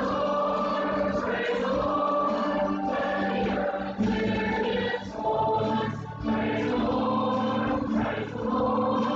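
Church choir singing a gospel hymn with instrumental accompaniment.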